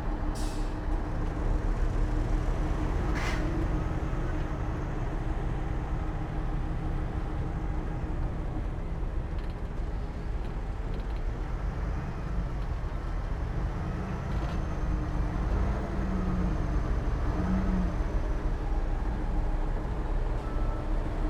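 Heavy diesel earthmoving machinery running steadily with a low rumble. Two short, sharp higher-pitched sounds come about half a second and three seconds in.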